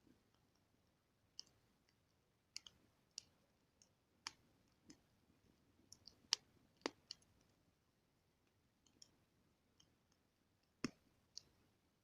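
Campfire wood crackling: about a dozen sharp pops at irregular intervals, with the loudest a little past the middle and near the end.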